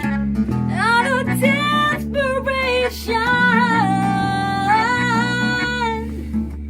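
A band playing live: guitar chords with a lead vocal singing over them, the voice coming in about a second in.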